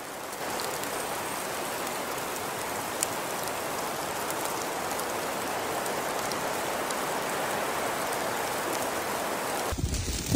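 Steady rain-like hiss of wet precipitation falling on surfaces.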